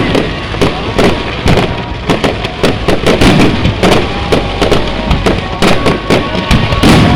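Aerial fireworks bursting in quick, irregular succession: many sharp bangs and crackles, several a second, over a continuous low rumble.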